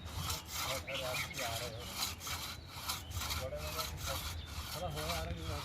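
Hand saw cutting through wood in quick, even strokes, about three a second, with people talking faintly underneath.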